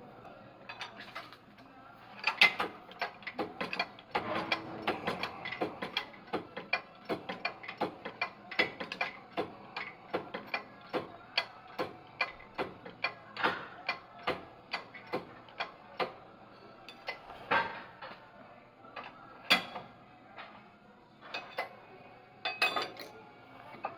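A hand tool ratcheting in a long run of sharp metallic clicks, about two a second, with a few louder knocks in the second half, during work on a rear drum-brake hub bearing.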